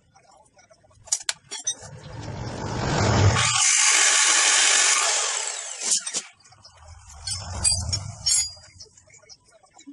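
A power tool runs for about four seconds, swelling up and then fading away, amid light clicks and knocks of handling metal parts.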